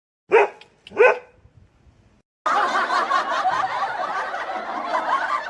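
Two short voiced sounds, then about three seconds of dense, continuous laughter that cuts off suddenly.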